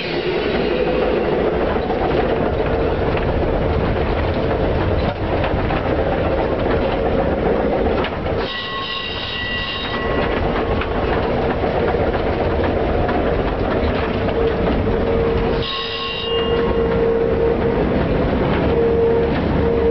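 Old tram running: steady rumble and clatter of the car with a steady motor whine that grows stronger near the end. The running noise is broken twice by a brief high ringing signal of about a second and a half each.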